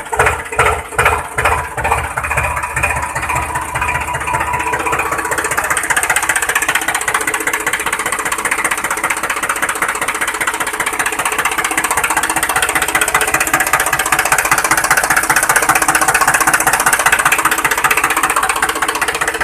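Tractor engine sound, starting as a slow chug whose beats speed up over the first few seconds, then settling into a steady, fast rattling run.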